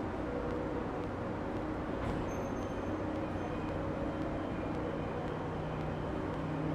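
E26-series Cassiopeia sleeper coaches starting to creep out of the platform, pushed from the far end by an electric locomotive: a steady low rumble and hum with several steady tones.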